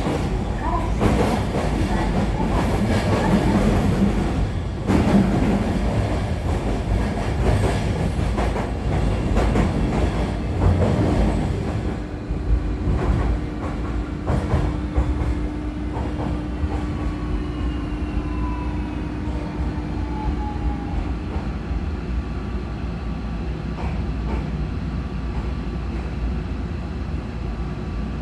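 Running sound inside the motor car of a 305 series electric multiple unit: wheels rumbling and clacking over rail joints for about the first twelve seconds. After that the noise drops to a steadier hum, and about eighteen seconds in a motor whine falls in pitch as the train slows.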